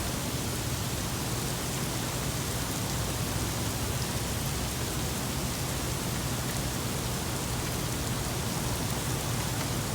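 Heavy rain falling steadily, a dense, even hiss without a clear roll of thunder.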